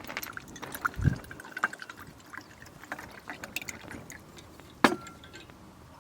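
A drink being handled and poured: a short run of liquid filling a container about a second in, among scattered small clicks and knocks.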